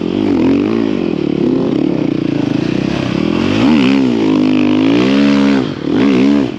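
A snow bike's engine revving up and down in quick surges as it picks its way over logs on a rough road. There is one big rise and fall about four seconds in, and another dip near the end.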